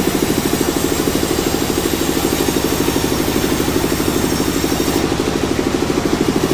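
Engine running steadily at sawmill machinery, a fast, even throbbing with no change in speed.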